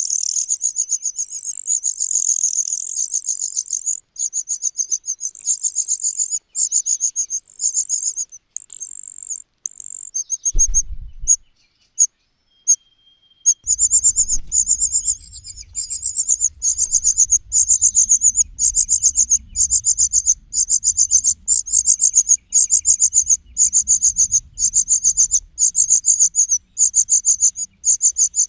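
Nestlings' begging calls: rapid, high-pitched chirping that breaks off for a few seconds around a third of the way through, then resumes as fast, even pulses. A faint low rumble runs under the second part.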